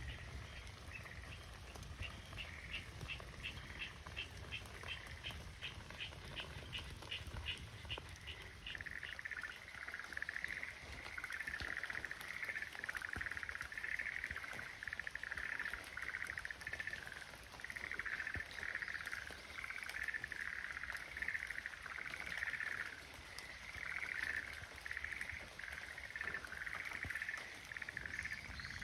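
Japanese tree frogs calling. First one frog gives a steady run of evenly spaced call notes, about two or three a second; from about eight seconds in, several frogs join in overlapping bouts of fast pulsed calls.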